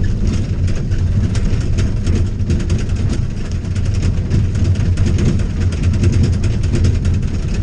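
Heavy diesel equipment engine running steadily at a low drone, with rain ticking densely over it throughout.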